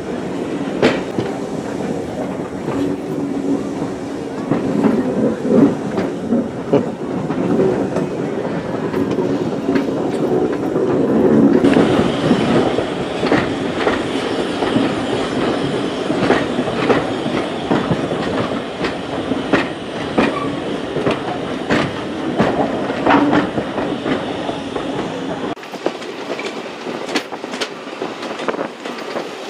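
A passenger coach of a heritage train running along jointed track, heard through an open compartment window. There is a steady rumble with wheels clicking over the rail joints. The deepest part of the rumble drops away about four seconds before the end.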